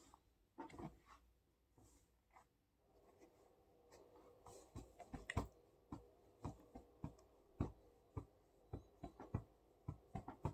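Near silence broken by faint, irregular clicks and taps that start about halfway through, a few a second.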